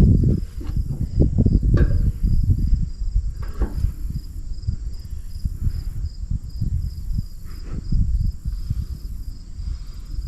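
Crickets chirping in a steady, regular pulse, over irregular low rumbling noise.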